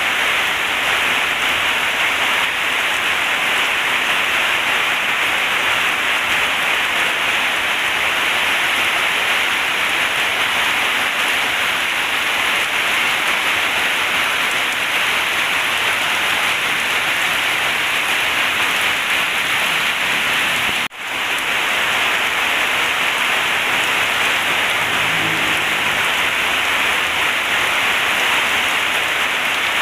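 Heavy rain pouring steadily, a dense even hiss that cuts out for an instant about two-thirds of the way through.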